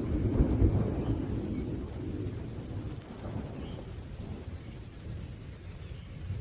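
Thunder rumbling low, loudest in the first second and slowly dying away, over a faint steady hiss of rain.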